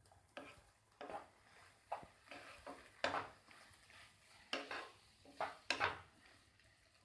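A metal cooking utensil clinking and scraping against a pan in a run of irregular knocks, the sharpest about three seconds in and again near six seconds, while chowmein is mixed in the pan.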